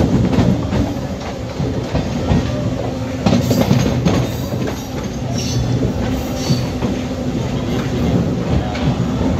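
Indian Railways passenger coach running along the track, heard from inside at an open window: a steady rumble of wheels on rails with scattered clicks over the rail joints.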